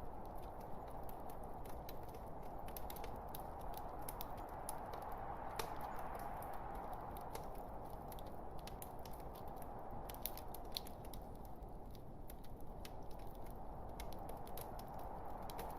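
Log fire crackling: a steady low hiss of burning wood with many sharp pops and snaps scattered at irregular moments.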